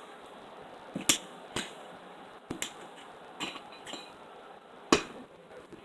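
Knife cutting zucchini pieces and knocking against a plate: a handful of irregular sharp clicks, the loudest about five seconds in.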